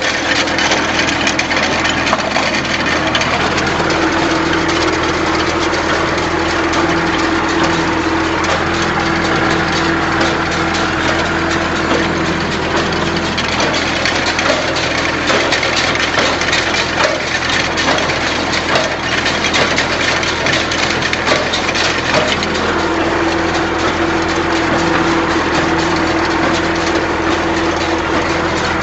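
Massey Ferguson 135 tractor engine running steadily while pulling an MF 20 small square baler, with the baler's mechanism clattering rapidly over the engine.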